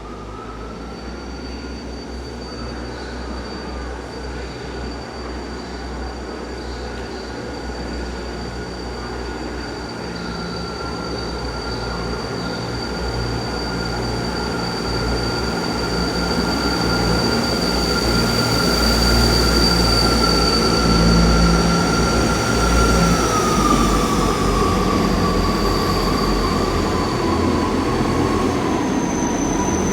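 Two coupled Class 159 diesel multiple units moving through the station: diesel engine rumble under a high, steady whine. The sound grows louder up to about 20 seconds in, and the whine drops in pitch around 23 seconds in.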